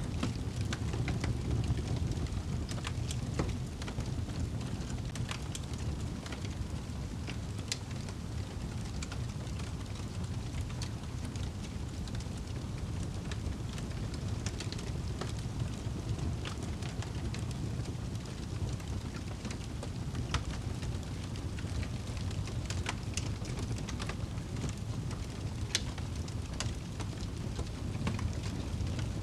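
Wood fire crackling in a fireplace: scattered sharp pops and small crackles over a steady low rumble.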